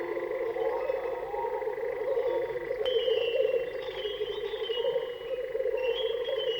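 Electroacoustic music: a dense, fluttering trill in the middle range runs throughout. Higher stepped whistling tones join about three seconds in and again near the end.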